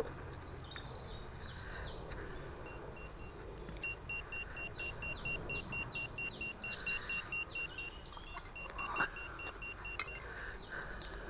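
Metal detecting gear giving a steady train of short, even high-pitched beeps, several a second, which starts a couple of seconds in and stops near the end, over low rumble.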